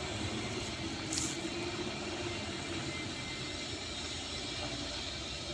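Truck running steadily on the move through a bend, with a brief high hiss about a second in.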